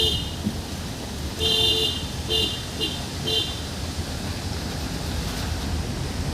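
Vehicle horn honking: one half-second honk about a second and a half in, then three quick short toots, over the steady rumble of a car driving on the road.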